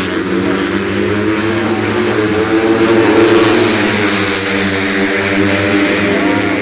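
Several racing underbone (cub) motorcycle engines running loud together, their pitch shifting a little as they rev.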